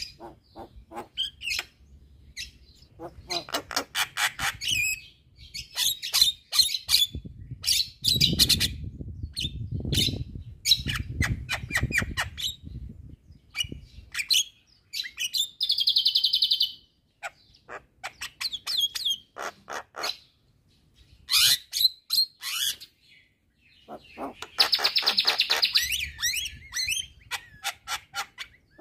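Javan myna singing at full pace: a varied song of rapid clicking rattles, harsh chattering notes and short whistles, with two longer buzzy, rasping phrases, one about halfway through and one near the end.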